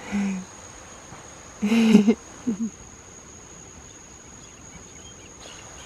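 A steady high-pitched rainforest insect drone, with a few short voice sounds over it at the start and about two seconds in.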